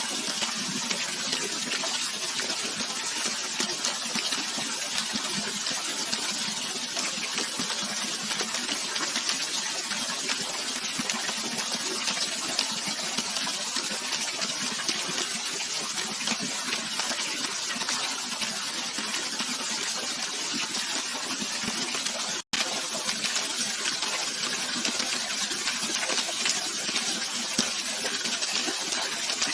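Steady rush of flowing water from a waterfall or river, a bright, hissing wash of sound. It cuts out for an instant about three-quarters of the way through.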